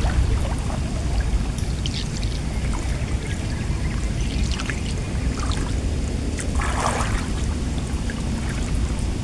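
Water splashing and trickling a few times, the loudest splash about seven seconds in, over a steady low rumble.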